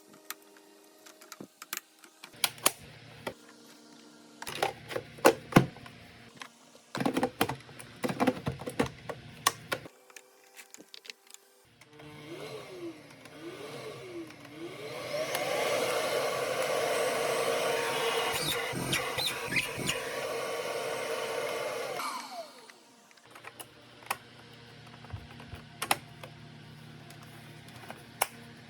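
Electrolux UltraFlex stick vacuum, fitted with a new power microswitch, switched on: the motor spins up with a rising whine, runs steadily for about seven seconds, then winds down. Clicks and knocks of handling come before it.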